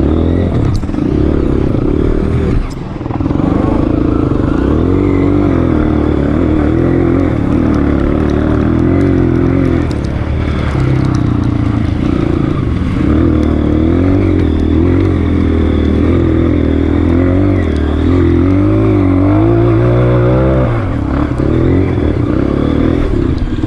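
Honda CRF230F trail bike's air-cooled single-cylinder four-stroke engine running under load, its pitch rising and falling with the throttle. There is a brief throttle-off about three seconds in and a climbing rev near the end.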